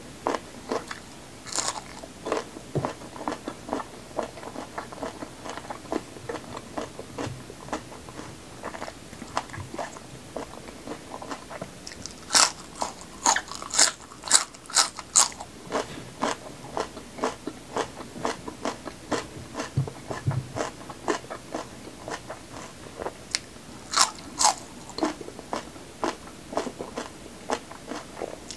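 Close-miked biting and chewing of crisp raw vegetables: a steady run of crunchy chews, with loud sharp bites about twelve seconds in and again near the end.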